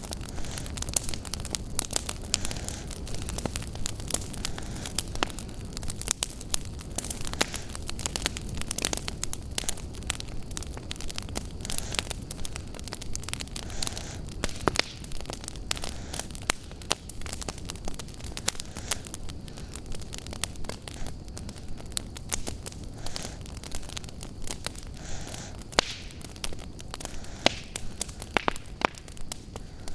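Wood fire in a fireplace crackling, with frequent irregular sharp pops of varied loudness over a steady low rumble.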